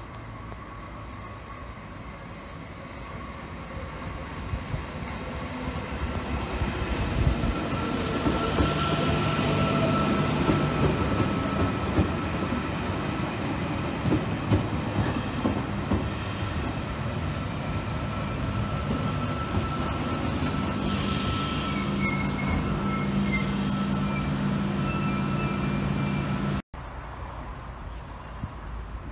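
Electric double-deck passenger train approaching and running along the platform, growing louder over the first several seconds. It settles into a steady hum, with wheels squealing on the rails and short hissing spells. The sound cuts off abruptly near the end, giving way to quieter outdoor ambience.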